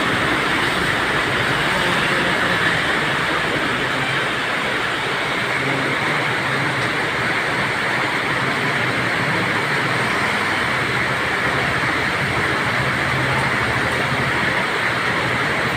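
Rain pouring steadily, a loud unbroken hiss that holds even throughout.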